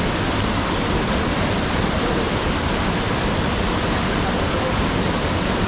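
A waterfall rushing, a loud steady roar of falling water with no change.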